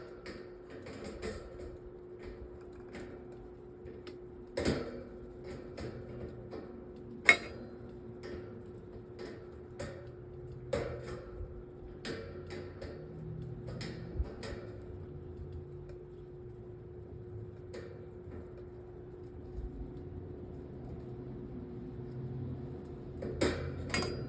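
Flathead screwdriver working at a stubborn screw in a metal table fan's grille ring: scattered metal clicks and scrapes with a few sharp knocks, the loudest about seven seconds in. A steady hum runs underneath.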